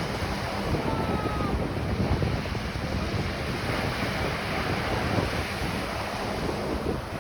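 Ocean surf washing onto a beach, a steady rushing with wind buffeting the microphone.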